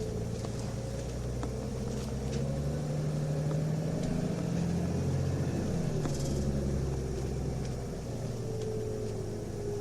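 Nissan Diesel UA city bus diesel engine with its ZF Ecomat four-speed automatic, heard from inside the cabin, pulling away with the engine pitch rising, dropping once at a gear change about six seconds in, then rising again. This unit sounds off from a normal UA272 and shifts up at high revs, which the recordist takes for an 'abnormal-sound' bus, possibly with torque-converter slip.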